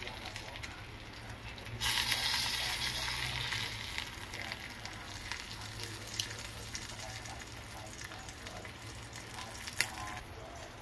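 Breaded shrimp frying in hot olive oil, sizzling. The sizzle jumps suddenly about two seconds in and then eases off gradually, and a couple of sharp clicks come later.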